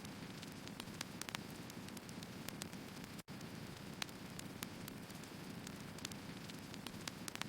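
Firewood burning, crackling and popping irregularly over a steady low rumble of the flames. A split-second dropout cuts the sound about three seconds in.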